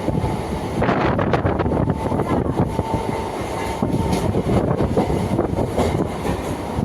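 Howrah suburban local train running: a loud, steady rumble with continuous clattering. A faint steady whine comes through from about two to four seconds in.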